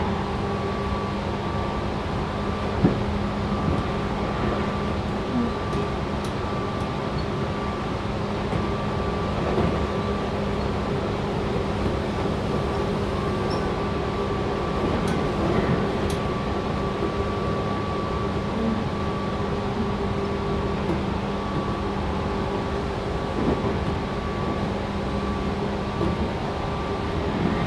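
Cabin running noise of a Tobu 6050 series electric train motor car: a steady rumble of the wheels on the rails with a hum that holds one pitch, and a sharp knock about three seconds in.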